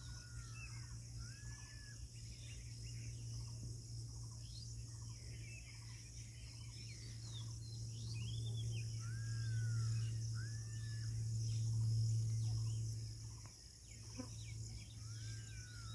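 Birds calling with short arched chirps again and again over a steady high insect hiss, with a low steady hum underneath that swells for a few seconds past the middle.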